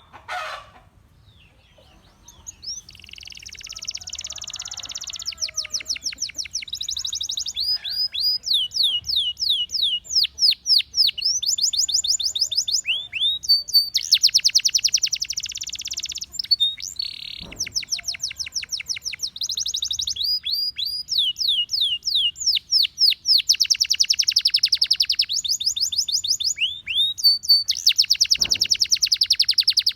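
Gloster canary singing: fast trills of repeated rising notes alternating with dense rolls, in phrases broken by short pauses. The song begins about two seconds in, after a brief quiet.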